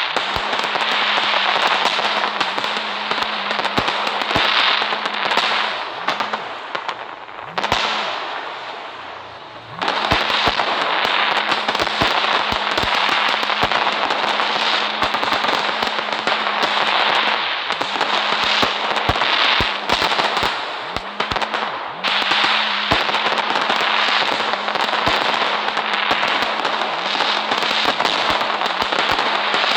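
Firecrackers going off in a dense, continuous crackle full of sharp pops. It dies down briefly about eight to ten seconds in, then picks up again.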